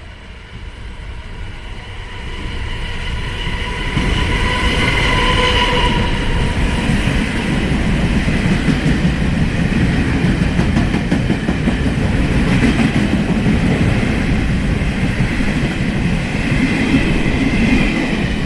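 Taiwan Railways Chu-Kuang express train, hauled by an E200 electric locomotive, passing through a station: rumble and wheel clatter build over the first few seconds, then hold loud and steady as the carriages go by.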